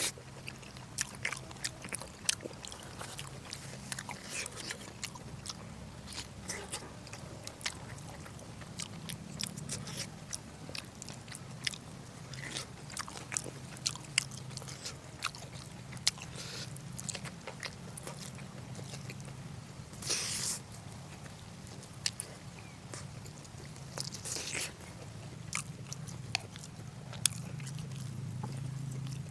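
Close-miked chewing and biting of braised pork: a steady run of wet mouth clicks and smacks, with two short louder noisy sounds about two-thirds of the way in and a few seconds later. A low steady hum runs underneath.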